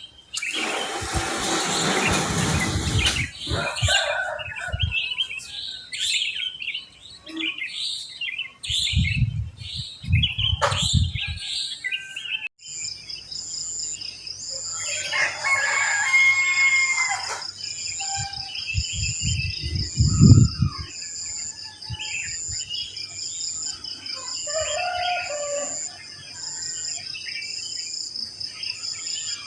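Sooty-headed bulbuls and other wild songbirds chirping and calling in a morning chorus, with a rooster crowing about halfway through. From just under halfway a steady, pulsing high-pitched tone runs under the birds.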